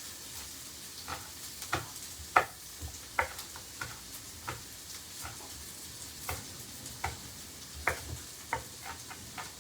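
Onion, pepper, ginger and garlic frying in coconut oil in a pan, with a steady sizzle. Irregular sharp clicks and knocks come about every half second to a second, from a kitchen utensil.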